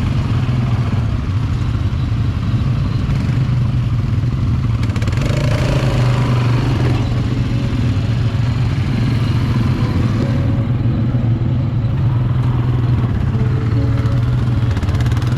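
Quad bike (ATV) engine running steadily under way, a constant low drone with rattling over the rough track.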